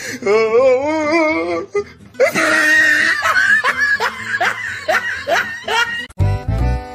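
A person laughing hard, a wavering voice at first and then a rapid run of ha-ha's. About six seconds in, it cuts off abruptly and upbeat music with a strong bass begins.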